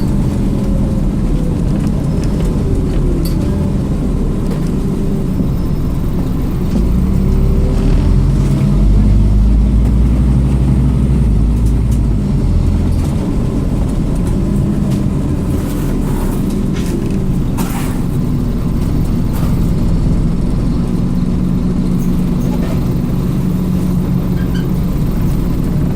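Scania OmniCity double-decker bus's diesel engine running on the move, its pitch rising and falling as it accelerates and changes gear, growing louder for a few seconds about a third of the way in. A few sharp clicks or rattles stand out over it.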